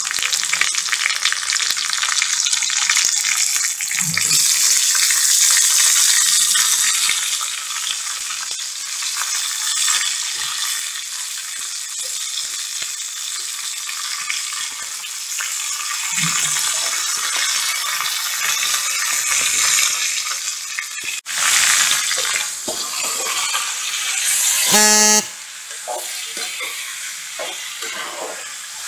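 Raw boneless chicken pieces sizzling in hot coconut oil in a steel kadai, the frying loudest at first and then steadier. Near the end a brief horn-like tone sounds, followed by a steel ladle stirring and scraping the pan.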